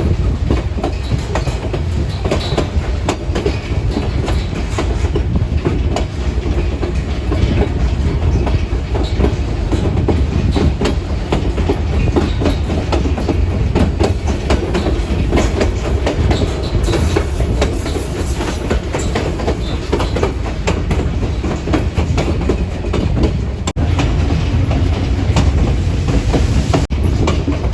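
White Pass & Yukon Route narrow-gauge train rolling steadily along the track, a continuous rumble with rapid clicking of the wheels over rail joints, heard from aboard a passenger car.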